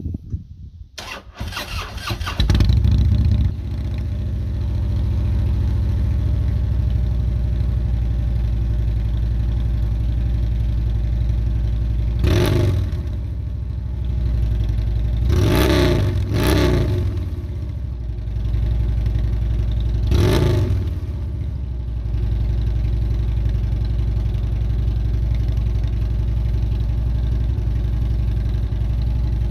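2012 Harley-Davidson Road Glide Ultra's Twin Cam 103 V-twin cold-starting through unbaffled American Customs exhaust pipes. The starter cranks briefly and the engine catches about two seconds in, then idles with four quick throttle blips, two of them close together in the middle.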